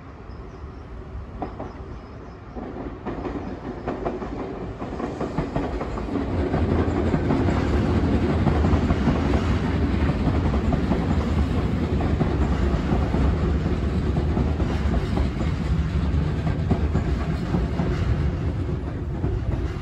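Nankai electric train running along the elevated tracks below. Its sound builds over the first six seconds or so, then holds steady with the wheels clattering over rail joints.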